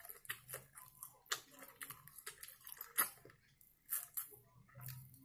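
Close-up mouth sounds of eating smoked mackerel: lip smacks, finger-sucking and chewing, heard as a run of short wet clicks with a few louder smacks.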